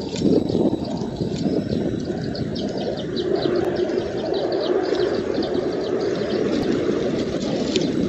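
A rapid run of short, high bird chirps, several a second and thickest in the middle, over a steady low rush of noise.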